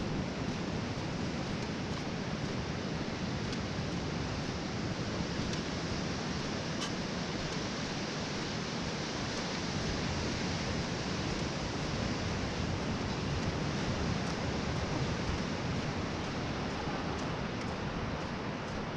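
Steady rushing outdoor noise of wind and sea along a rocky shoreline, with a few faint ticks.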